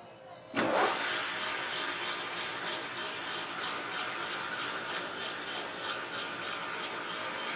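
Pressure washer spraying water: a steady rushing jet that starts suddenly about half a second in.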